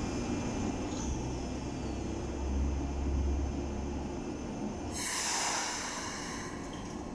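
Keikyu New 1000 series electric train standing at the platform before departure: a steady low equipment hum, then about five seconds in a sudden sharp hiss of compressed air from the train's pneumatic system that fades over a second or so.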